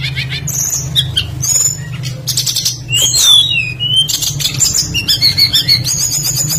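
Several songbirds singing: quick chirps, whistled notes that rise and fall, and fast trills, one after another, over a steady low hum.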